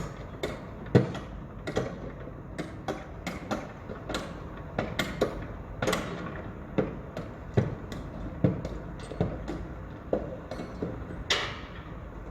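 Construction site ambience: irregular sharp knocks and bangs, about two a second, over a steady low rumble, with a longer scraping sound about eleven seconds in.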